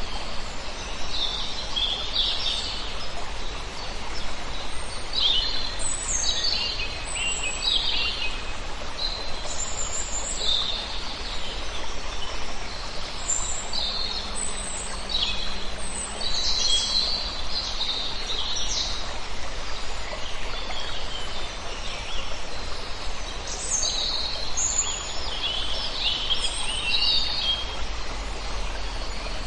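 A flock of small birds chirping, many short high calls overlapping in scattered clusters, over a steady background hiss.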